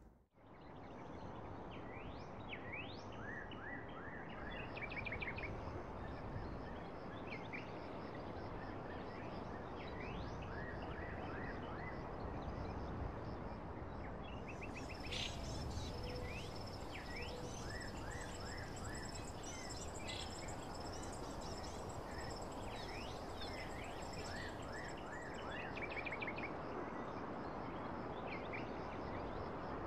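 Faint birdsong: many short chirps and quick trills over a steady background hiss, with a high steady insect-like tone joining for a stretch in the middle.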